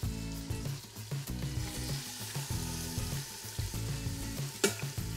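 Pork shoulder chunks sizzling as they sear in hot oil in an Instant Pot on sauté, with a background music bass line. Near the end there is a single sharp click of the metal tongs against the stainless pot.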